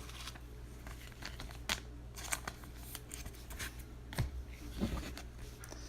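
2017 Panini NFL Prizm football cards being handled and flipped through one by one: faint rustling of card stock with a few soft flicks scattered through.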